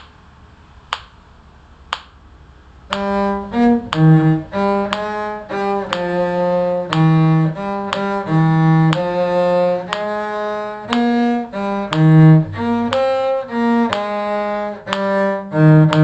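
A metronome clicks about once a second. About three seconds in, a bowed string instrument starts playing a lively melody in six-eight time, with short quick notes changing pitch.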